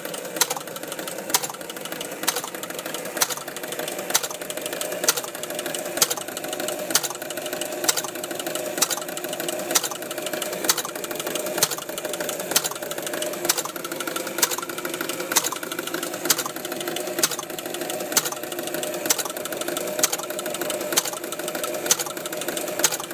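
Sonic Super Straight pinball machine running with its coin contact held closed: a steady mechanical running with a sharp click about once a second, the machine cycling without ever resetting.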